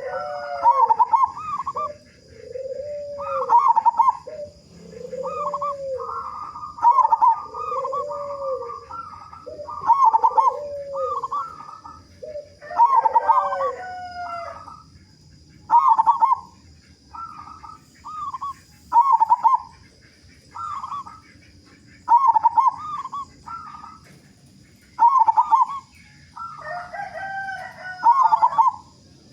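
Zebra doves (perkutut) cooing in repeated phrases of quick, rolling notes, a loud phrase about every three seconds, with more than one bird overlapping.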